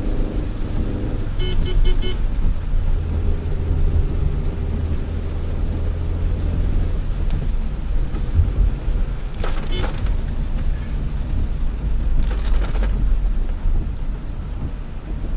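Cabin noise of a Honda Elevate driving on wet roads in heavy rain: a steady low road and engine rumble with a rain and tyre-spray hiss. A quick run of short beeps comes about a second and a half in, and two brief swishes come later.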